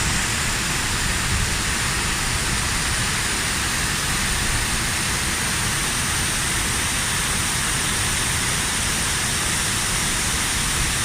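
Oshin-Koshin waterfall: falling water making a steady, loud rush with no change in level.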